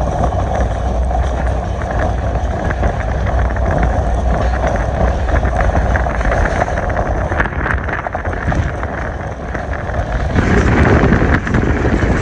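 Moving passenger train running, a steady low rumble with wind buffeting the microphone; the noise grows louder about ten seconds in.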